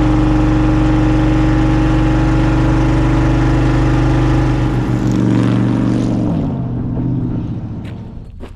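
A 1954 Chevrolet Bel Air driving past while towing a car trailer: its engine runs loud and steady, the note drops about six seconds in as it goes by, then fades away.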